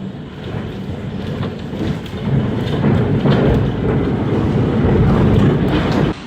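Strong tornado wind rushing and buffeting the microphone, with a few faint clicks of debris; it swells about two seconds in and cuts off suddenly near the end.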